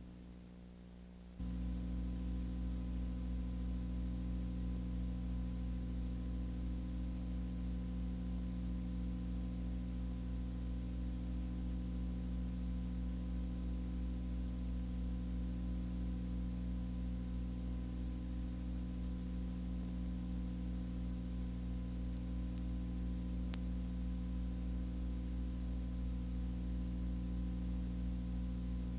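Steady low hum with an even hiss, coming on abruptly about a second and a half in and holding level; a single faint click comes near the end.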